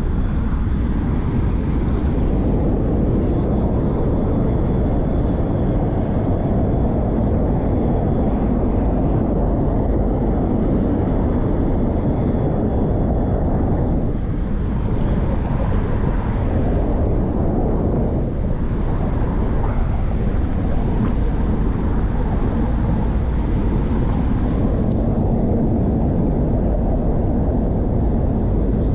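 Wind rushing over a chest-mounted action camera's microphone while riding a bicycle: a steady low rumble throughout.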